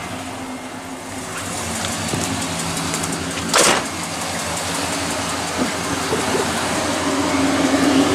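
6.0-litre LS V8 idling steadily just after being started. About three and a half seconds in, a short, loud burst of noise cuts across the idle.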